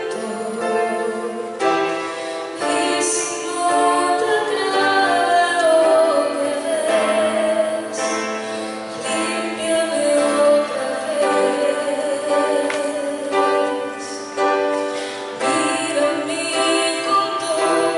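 A woman singing a worship song with musical accompaniment, her voice holding long notes and sliding between them.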